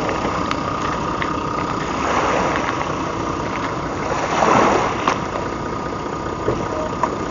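Fishing boat's engine idling steadily, with a brief swell of noise about halfway through.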